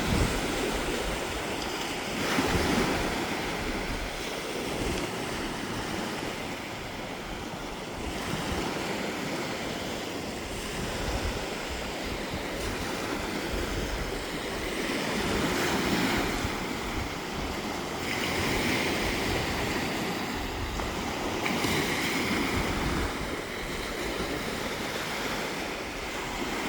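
Gentle waves breaking and washing up on a sandy beach, the surf swelling every few seconds, with wind rumbling on the microphone.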